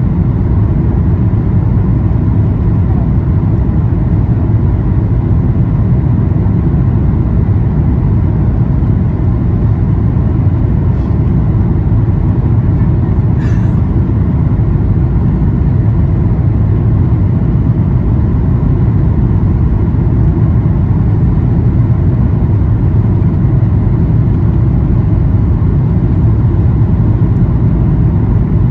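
Steady low rumble of a Boeing 737-800's CFM56 engines and airflow, heard inside the cabin, with a faint click about halfway through.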